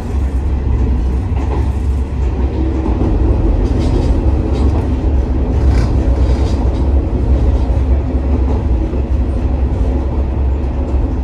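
A JR West KiHa 47 diesel railcar running, heard from inside the passenger car: a steady low drone of engine and running gear, with a few faint rail clicks in the middle.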